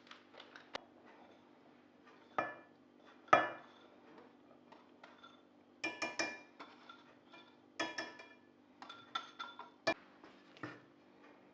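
Dishes and cutlery being handled: a series of separate sharp clinks, each with a short ring, the loudest about three seconds in.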